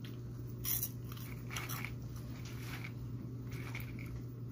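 Chewing sugar-coated peanuts with the mouth close to the microphone: a few separate crunches over a steady low hum.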